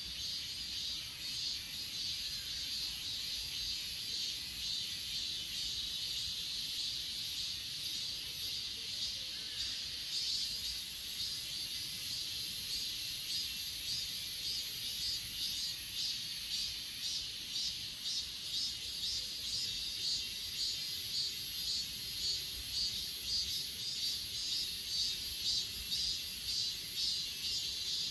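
Chorus of grass insects such as crickets, chirping in fast, steady pulses that blend into a continuous high-pitched drone.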